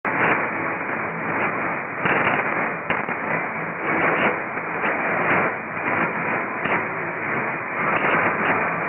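Weak, long-distance shortwave AM reception on 4865 kHz: steady static hiss with frequent crackles, and the station's audio barely showing through the noise.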